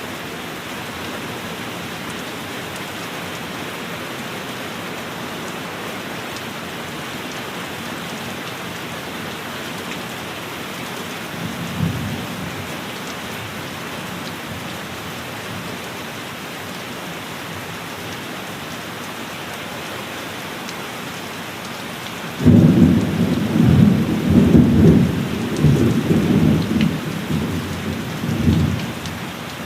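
Steady heavy rain with thunder: a brief low rumble about twelve seconds in, then near the end a sudden loud clap of thunder that rolls on for several seconds before dying away.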